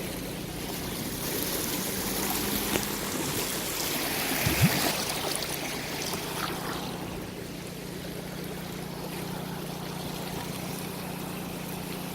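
Floodwater rushing steadily, over a steady low hum, with a single thump about four and a half seconds in.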